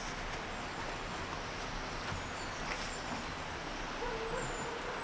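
Steady outdoor hiss with a few short, high-pitched bird chirps, and a faint held whine from about four seconds in.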